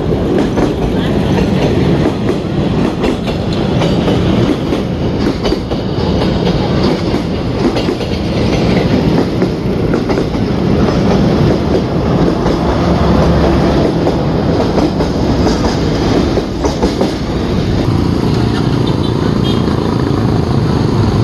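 Vietnam Railways SE10 passenger coaches rolling past close by, their wheels clattering over the rail joints in a steady, loud clickety-clack.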